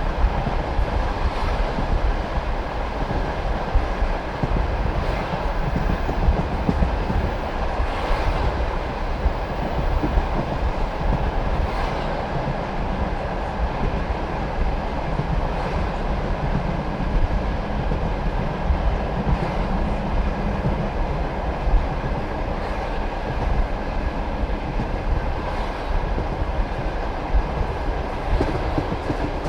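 Passenger train carriage wheels clattering over rail joints every few seconds, over the steady rumble of the train running on the track.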